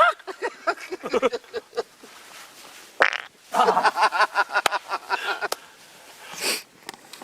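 Human voices making silly animal-call impressions: bouts of squawking, hooting and cackling noises, with short breathy bursts between them.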